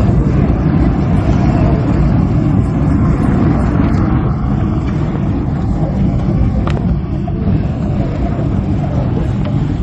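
A loud, steady low rumble without any clear tone.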